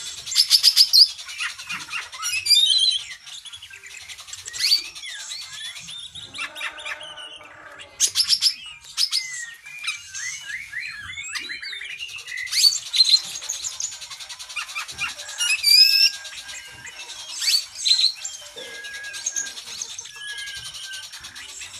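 Oriental magpie-robin (kacer) singing a long, varied song of whistles, fast trills and chirps that mixes in phrases copied from other birds, with a lower, buzzier call about six seconds in.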